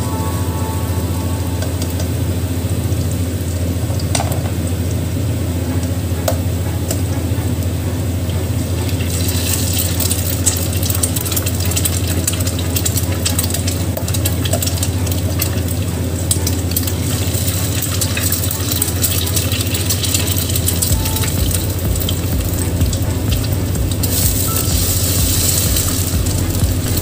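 Diced mixed vegetables frying in oil in a wok, a steady sizzle with crackling that gets louder about nine seconds in and again near the end, while a metal spatula stirs and scrapes them around the pan. A steady low hum runs underneath.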